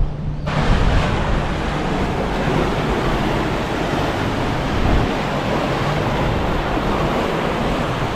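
Mediterranean surf washing steadily against the shore, with wind rumbling on the microphone. It starts suddenly about half a second in.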